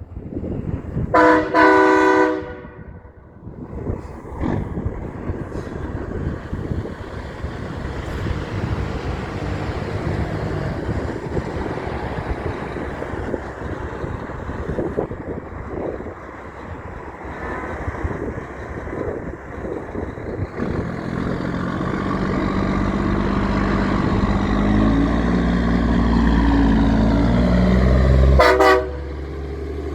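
A big truck's air horn blasts about a second in and holds for about a second, then passing truck and road traffic noise. From about two thirds through, a heavy truck's diesel engine builds louder, and a second short horn blast sounds near the end.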